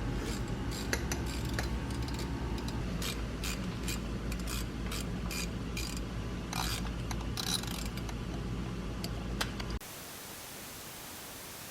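Superformance GT40's 427 Roush V8 idling, with irregular sharp snapping clicks over it: a bad spark plug wire arcing to the fuel rail, the cause of a misfire. About ten seconds in the engine sound stops, leaving a steady hiss.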